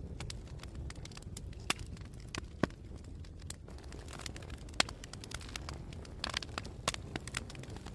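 Wood fire in a fireplace crackling, with irregular sharp pops over a steady low rumble; a brief cluster of louder crackles comes a little after six seconds in.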